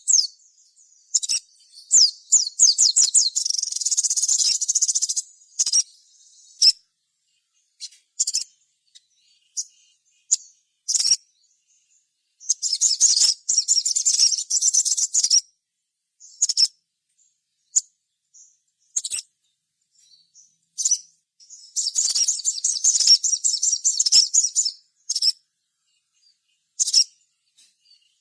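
Little spiderhunter (sogok ontong) singing. Three long runs of rapid, high chattering, each lasting about three seconds, with short sharp single chirps between them.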